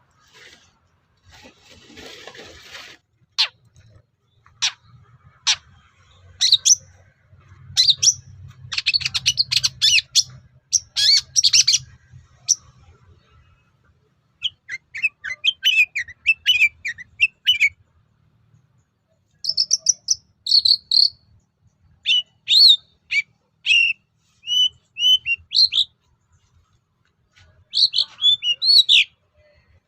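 Long-tailed shrike (cendet) singing in bouts of sharp chirps, harsh rasping notes and quick rising-and-falling whistles, with short pauses between phrases. A faint low hum runs under the first half, and there is a brief rustle about two seconds in.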